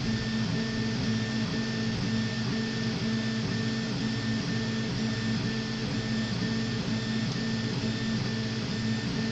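RepRap Prusa Mendel 3D printer at work: its stepper motors whine in short tones that change pitch every fraction of a second as the print head moves, over a steady hiss.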